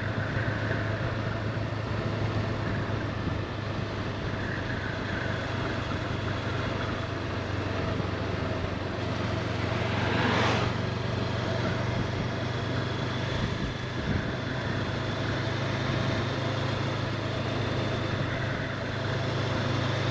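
Honda CB500X parallel-twin motorcycle engine running at a steady cruise, a low even drone under rushing wind and road noise. About ten seconds in the rushing noise swells briefly and falls away.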